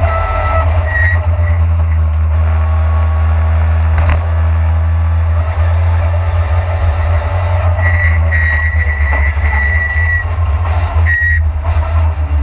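Lada VFTS rally car's four-cylinder engine running hard at speed, heard from inside the cabin with road noise. There is a sharp knock about four seconds in, and a high whine comes in for a couple of seconds near the end.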